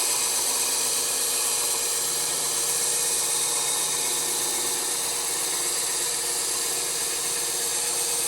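Bandsaw running steadily, its blade cutting through wood.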